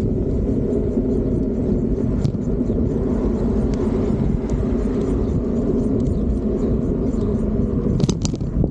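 Steady rumble of riding along on a Fiido D3 Pro electric bike: road and wind noise, with scattered small clicks and a quick cluster of sharp rattles about eight seconds in.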